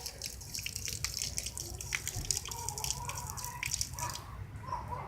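Water being poured from a container onto the ground, splashing and trickling in quick irregular drips as it runs off through cracks.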